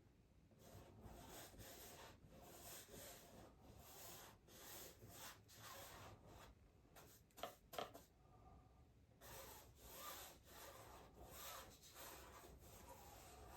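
Faint strokes of a paintbrush rubbing acrylic paint onto canvas, a soft scrubbing repeating about twice a second, with a short pause a little past the middle.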